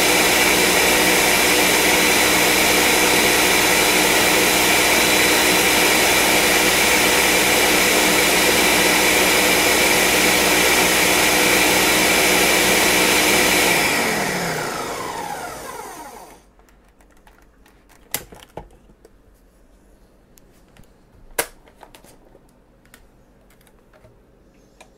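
Countertop blender running steadily at full speed, puréeing whole citrus fruit, onion and garlic in orange juice. About fourteen seconds in it is switched off and the motor winds down in falling pitch, followed by a few light knocks.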